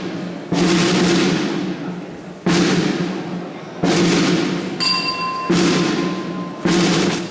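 A slow, uneven drum beat: five heavy strikes about one to two seconds apart, each ringing out before the next, typical of a Holy Week procession drum. A faint steady high tone sounds over the last strikes.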